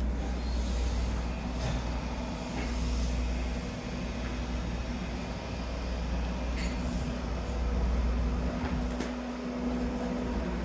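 A JR 255 series electric limited-express train standing at the platform, its onboard equipment giving a steady hum with a constant tone, over a low rumble.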